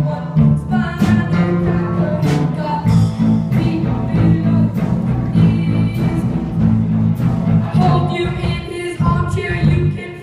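Live band playing a song with singing, bass and drums.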